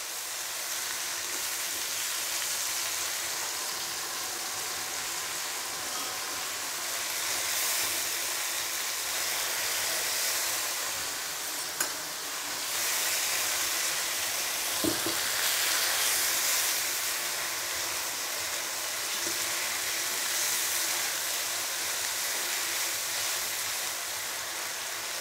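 Chili sambal with petai beans sizzling in a non-stick wok, stirred with a spatula as the tomato liquid cooks down. It is a steady high hiss, with two sharp knocks about halfway through.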